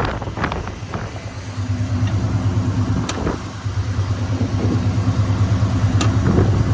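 Ford 351 V8 idling steadily with an even low pulse. A few sharp clicks and clunks, about half a second, three seconds and six seconds in, come from the hood latch being released and the hood being raised.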